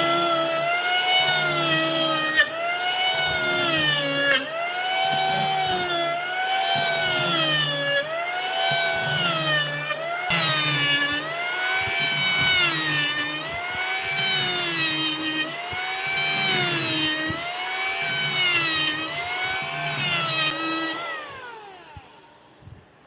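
Electric power tool motor running under a rhythmic load, its pitch dipping and recovering about once a second as it is worked back and forth. About 21 seconds in it is switched off and winds down with a falling whine.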